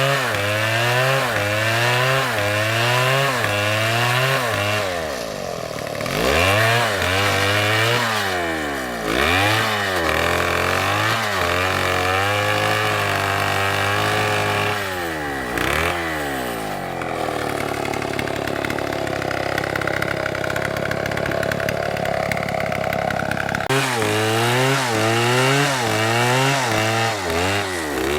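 Two-stroke STIHL chainsaw cutting wood, its engine pitch rising and falling in quick repeated surges of about two a second. Around the middle it swings more slowly and then runs steadier for several seconds, and near the end the quick surging returns.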